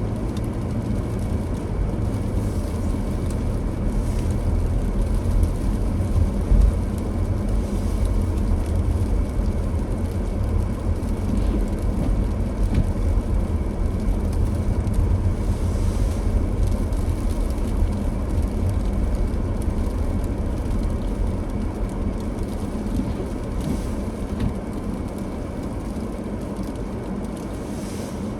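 A car driving along a road: a steady low rumble of engine and road noise, with a faint steady hum above it.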